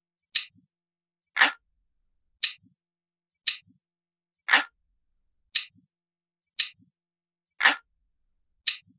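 Glass-like clock ticking, a crisp tick about once a second, with every third tick louder and fuller than the two between.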